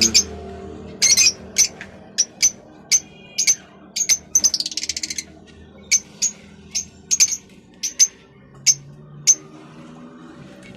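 Many cage birds in an aviary shed chirping: sharp, high single chirps every half second or so, with a short run of quick chatter about four seconds in.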